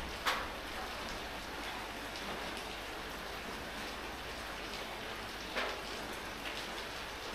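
Steady rain falling, an even hiss, with two louder sharp taps, one just after the start and one about three-quarters through.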